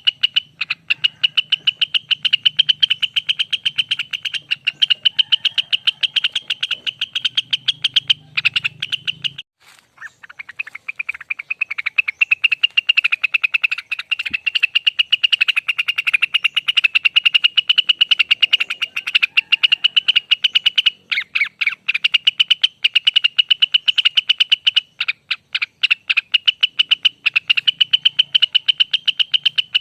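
Cucak wilis (rengganis) singing a long, very rapid trill ("ropel panjang"), a fast run of repeated high notes that breaks off briefly about ten seconds in and then carries on.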